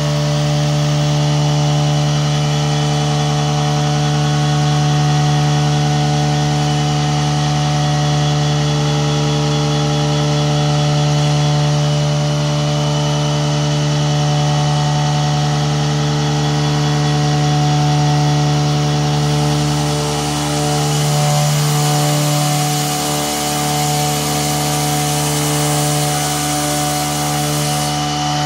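Milling machine spindle running at high speed with coolant on, the cutter face-milling the aluminium cylinder head of a Predator 212 Hemi engine: a loud, steady whine over a hiss of cutting. A higher hiss joins about two-thirds of the way through and stops just before the end.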